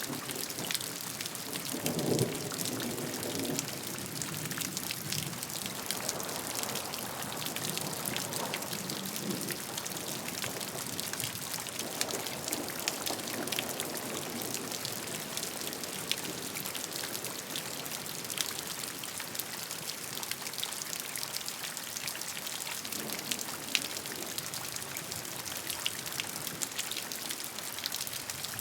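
Steady rain with many individual raindrops pattering and ticking on a surface. A lower rush swells briefly a few times.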